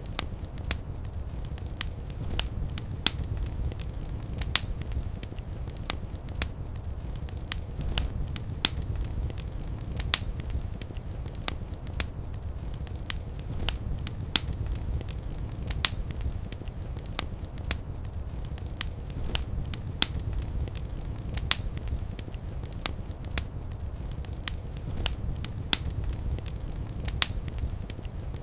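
Fireplace fire crackling: irregular sharp pops and snaps, several a second with a few louder ones, over a steady low rumble of the flames.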